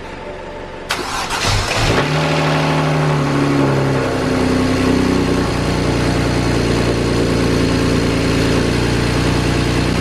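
Freshly swapped-in engine of a BMW 335is starting for the first time: it cranks for about a second, catches, runs at a raised idle for a few seconds, then settles into a steady idle.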